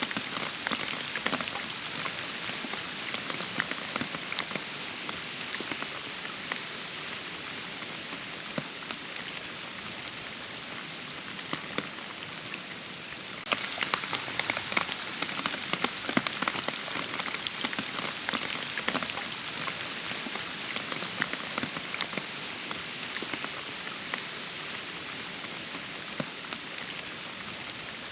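Steady rain falling, with many distinct drop hits throughout; it turns abruptly louder and heavier about halfway through.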